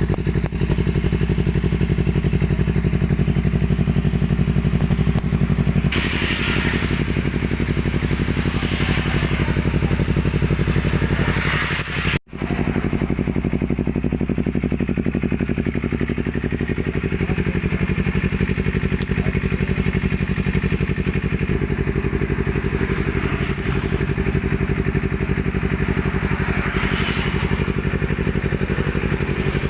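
Honda CBR250RR engine idling steadily through an F2racing RC S slip-on aftermarket exhaust, with a momentary drop-out about twelve seconds in.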